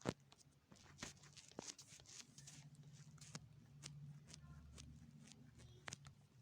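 Faint scattered clicks and taps, a few a second at irregular intervals, over a low hum that swells a little in the middle.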